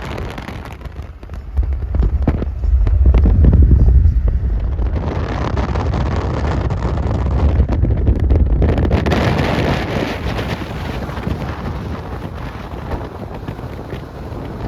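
Car driving along a road: steady low road rumble with wind buffeting the microphone. A louder rush of wind noise runs from about five to eleven seconds in.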